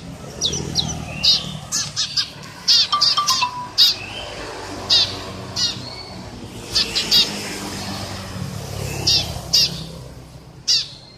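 Eurasian tree sparrow giving short, sharp chirps again and again at an irregular pace, over a low steady rumble.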